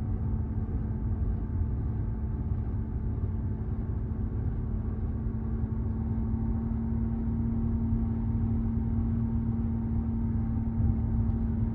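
Audi A6 4G 3.0 TDI V6 diesel under way at about 2100 rpm, heard from inside the cabin: a steady low drone with a constant hum. Through it runs a grinding, scraping sound that the owner suspects may be the timing chain rattling.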